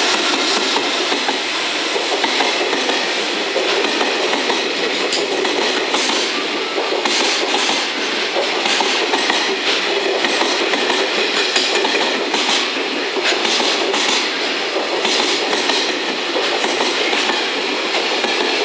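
Container freight wagons rolling past at close range, a steady rumble of wheels on rail with repeated clicking as the wheels cross rail joints.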